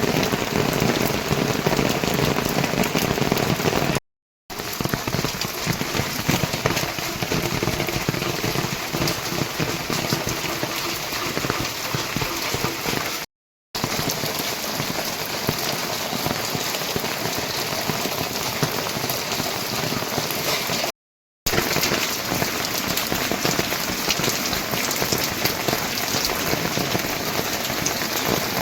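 Heavy rain falling steadily, as a dense even wash of drops, cut to silence for a split second three times.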